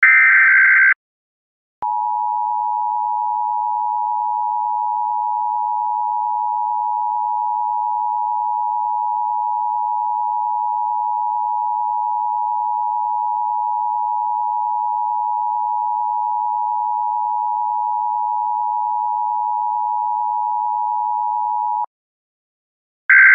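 Harsh electronic beeping stops about a second in. After a short gap, a steady electronic tone of two close pitches, like a telephone dial tone, holds unchanged for about twenty seconds and then cuts off suddenly. The buzzy beeping starts again near the end.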